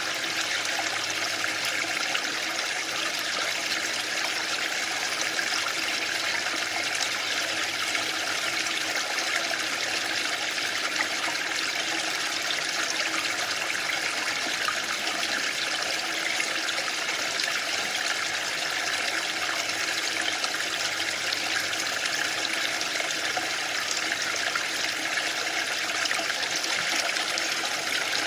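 Waterfall: water falling and splashing in a steady, even rush with no breaks or swells.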